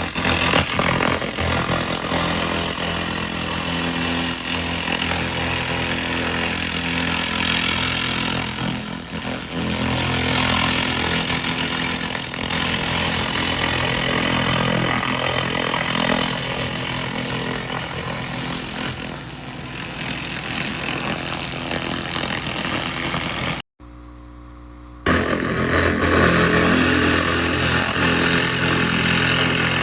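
A 2000 W handheld laser rust remover running while cleaning metal: a steady hiss over a steady machine hum. The sound cuts out for about a second and a half about three-quarters of the way through, then comes back.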